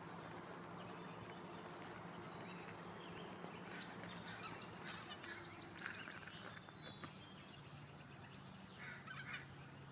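Faint bird chirps and short calls, coming thickly from about four seconds in, over a low steady background hum.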